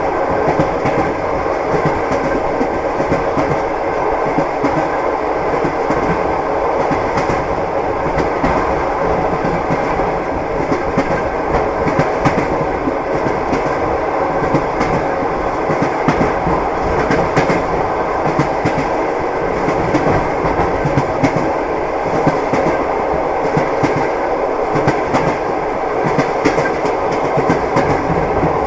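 Passenger train running at speed, heard from inside the carriage: a steady rumble with frequent knocks of the wheels on the rails.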